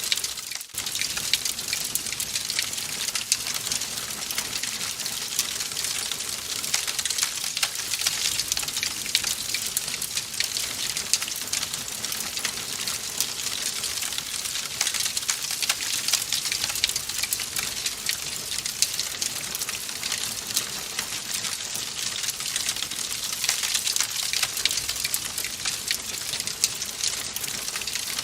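Wood fire crackling in a fireplace: a steady hiss packed with small pops and snaps. It dips briefly about half a second in.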